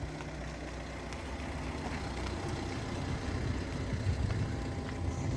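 Car engine running steadily, growing slightly louder over a few seconds.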